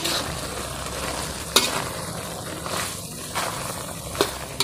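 Freshwater mussels in a spice sauce frying in a wok, sizzling steadily while being stirred, with a few sharp clacks against the pan.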